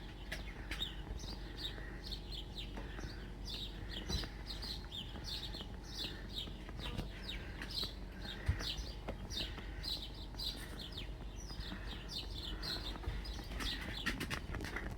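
Small garden birds chirping continuously, quick downward-sliding chirps several a second, with a couple of light knocks.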